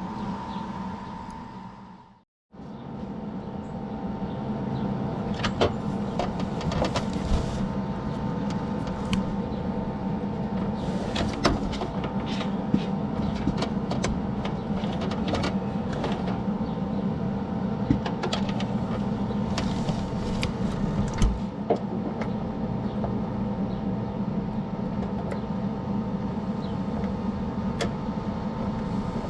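A machine running steadily with a hum and scattered crackles and ticks, cut off briefly about two seconds in.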